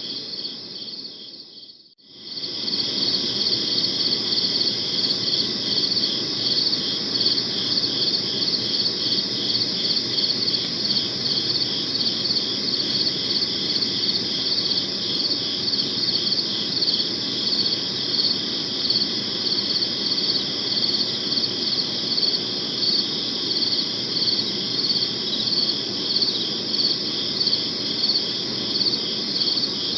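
Crickets chirping in a steady chorus of rapid, evenly pulsed chirps. The sound dips almost to silence about two seconds in, then swells back up, like a loop being spliced.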